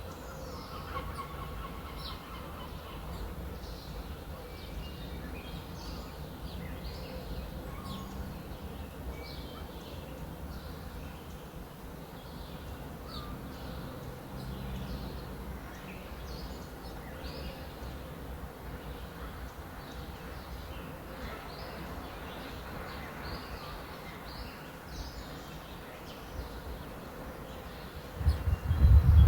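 Small birds chirping in quick, scattered calls over a steady low background rumble. Near the end, a loud low rumble lasting about a second stands out.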